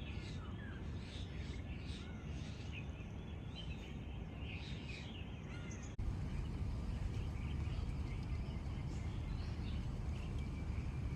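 Several birds calling and chirping over a steady low rumble. About six seconds in, an abrupt cut makes the rumble louder and the bird calls fainter.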